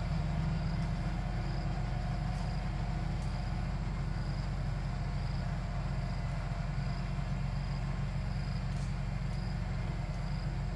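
Tractor diesel engine running steadily at constant speed: a low, even drone with no revving.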